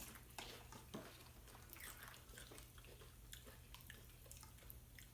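Faint chewing and small mouth clicks of a person eating chips with salsa and dip, with one sharper click about a second in.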